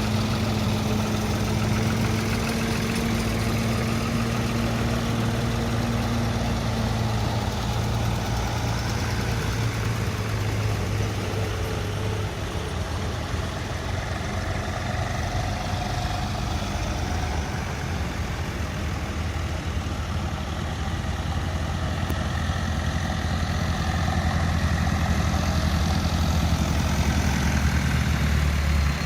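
An engine running steadily with a low hum; about a third of the way in its pitch drops lower and stays there.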